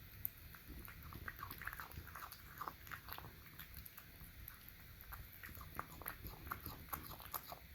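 A cat eating wet canned cat food: quick, irregular wet chewing and lip-smacking clicks.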